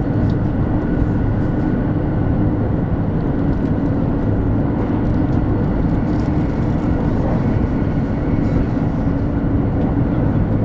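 Interior running noise of a 200 series Shinkansen at speed: a steady low rumble of the train on the rails, with a constant low hum over it.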